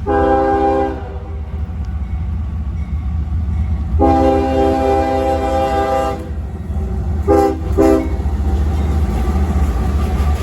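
Freight locomotive air horn sounding in four blasts: a one-second blast, a longer blast of about two seconds, then two short toots close together. A steady low rumble underlies it.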